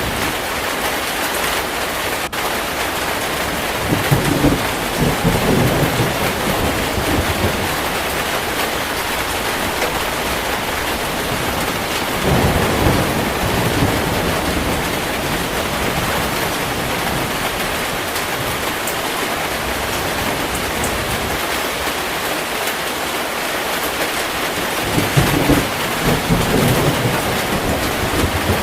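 Heavy rain falling steadily, with three low rolls of thunder: one about four seconds in, one near the middle and one near the end.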